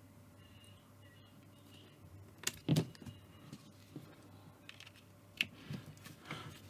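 Keys being pressed on a laptop keyboard: scattered, irregular clicks, the loudest pair about two and a half seconds in, after a quiet start.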